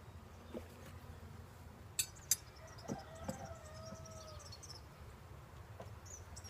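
Wooden beehive frames and box parts being handled during a hive inspection: a few knocks, with two sharp clicks about two seconds in, over a faint steady low hum.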